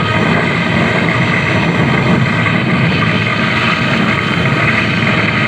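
Harsh noise wall: a dense, steady wall of loud distorted electronic noise with no clear pitch or beat.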